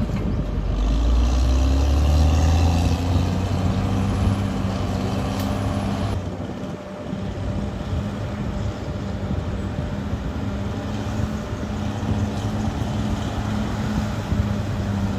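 Diesel engine of a heavy earthmoving machine running, with a heavy low rumble for the first few seconds, a brief dip about six seconds in, then a steady run.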